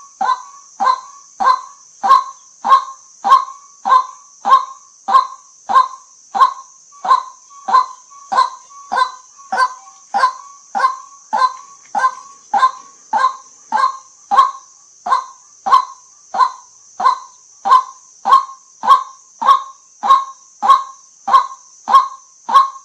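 White-breasted waterhen calling a repeated 'kwak' note, short calls evenly spaced at just under two a second, over a steady high hiss.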